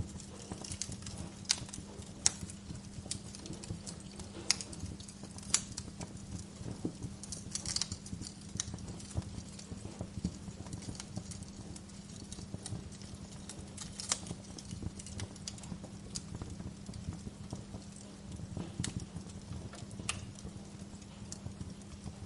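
Wood fire crackling, with irregular sharp pops and snaps, a few of them loud, over a steady low hum.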